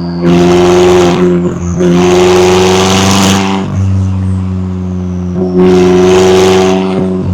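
McLaren 570S twin-turbo V8 running at a steady pitch, with three louder rushing surges of exhaust and air noise over it.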